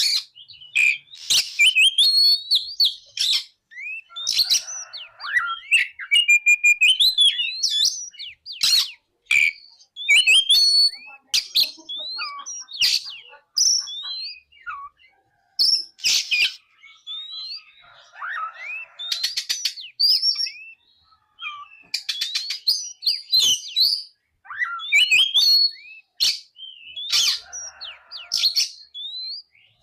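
Oriental magpie-robin singing a loud, varied song of rising and falling whistled notes, sharp clicks and quick chattering runs, in phrases broken by short pauses, with a few harsh buzzy notes mixed in.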